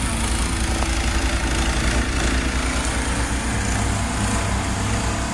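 Engine of a snow-clearing machine running steadily, with an even low throb.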